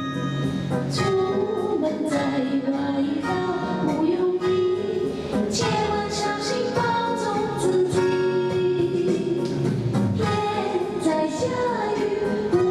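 A song: a voice singing a melody over instrumental accompaniment with guitar.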